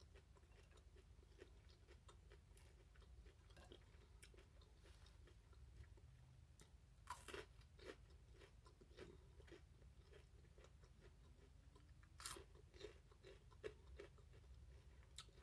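Faint chewing of crisp, re-fried french fries, with a few louder crunches about halfway through and near the end.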